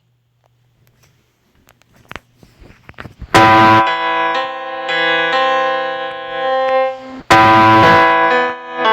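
Near silence with a few soft clicks, then electric-piano-style keyboard music: a loud chord struck about three seconds in and another about seven seconds in, each ringing on as sustained chords.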